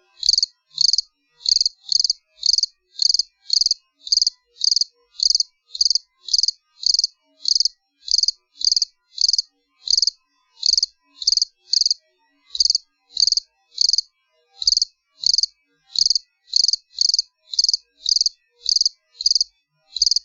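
A cricket chirping steadily: short, high-pitched chirps repeating evenly, about one and a half to two a second.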